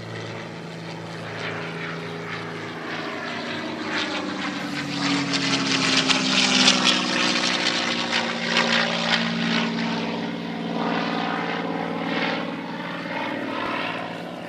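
Piston-engined propeller aircraft making a pass overhead: the engine grows louder to a peak about halfway through, then drops in pitch and fades as it moves away.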